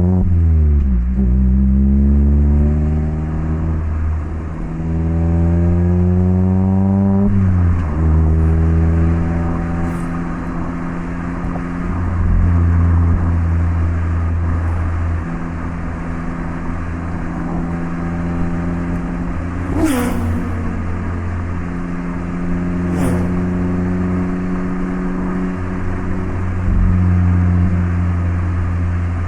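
Mazda MX-5 (ND) 1.5-litre four-cylinder engine through an HKS Legamax Sports exhaust, under way: revs dip, then climb steadily through a gear, with a shift about seven seconds in, followed by steady cruising. Two brief sharp sounds come about two-thirds of the way through.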